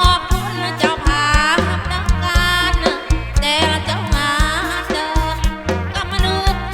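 Live kantrum music: a drum kit and bass keep a steady beat under a wavering, gliding lead melody.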